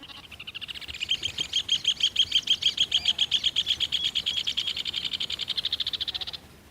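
Rufous hornero calling excitedly: one long, fast series of sharp high notes, about ten a second, that swells over the first two seconds and stops suddenly near the end.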